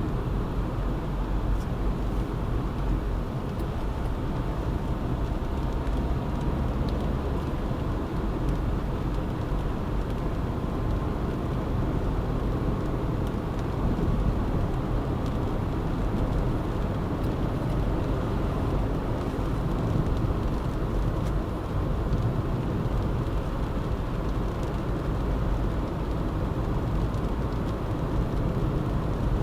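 Steady road noise of a car driving at a cruising pace, an even low rumble of tyres and engine.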